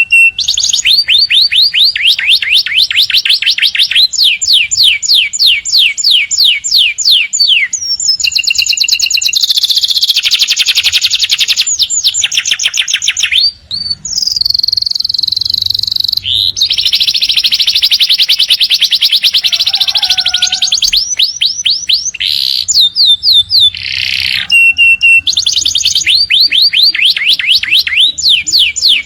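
Domestic canary singing a long, loud song of rapid trills and rolling phrases, each run of notes repeated many times a second, with one brief pause about halfway through.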